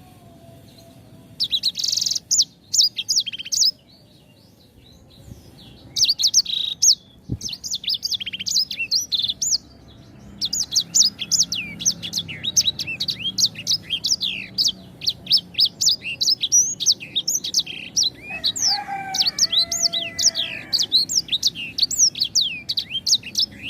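A small songbird singing a fast, high-pitched series of sharp chirps and trills, in short bursts at first and then in a long unbroken run. A lower, slower warbling phrase comes in about three-quarters of the way through.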